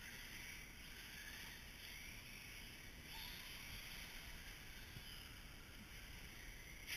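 Faint, rising and falling whine and tyre hiss of electric radio-controlled short-course trucks running on a track.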